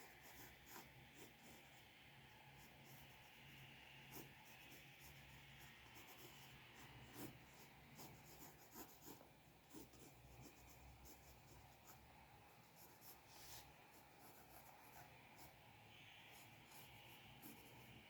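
Faint scratching of a drawing tool on paper: irregular short strokes and light taps, over a steady faint hum.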